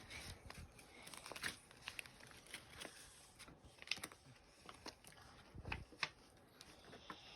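Faint rustling with scattered light clicks and taps, the sound of small objects being handled and rummaged through by hand.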